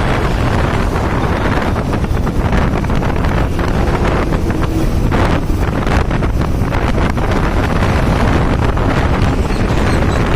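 Heavy wind buffeting the microphone while travelling across the bridge, over a steady low vehicle rumble.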